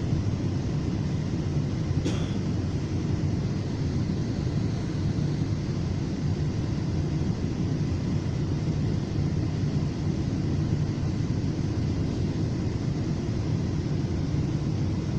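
Steady low rumble of a FrontRunner commuter train in motion, heard from inside the passenger car. There is one brief high squeak about two seconds in.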